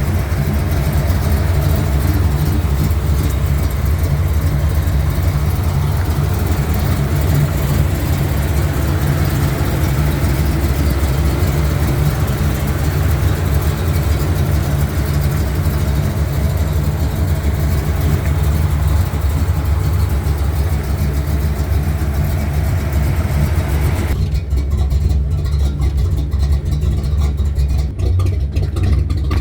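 A 1970 Chevy C10 pickup's engine running with a steady low rumble. The higher hiss above it cuts out abruptly near the end while the rumble carries on.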